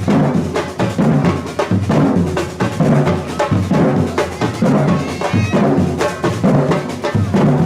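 Batucada samba drum group playing a steady rhythm: deep, regularly pulsing drum beats under a dense stream of sharp, rapid strokes.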